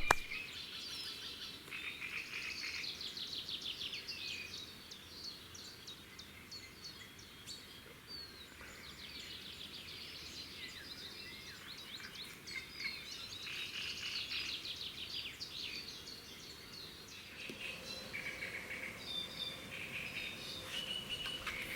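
Songbirds singing: overlapping chirps and rapid trills, one phrase after another.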